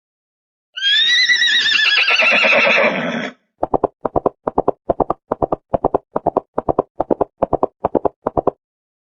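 A horse whinnying: one long wavering call that falls in pitch, followed by hooves clip-clopping at about three steps a second.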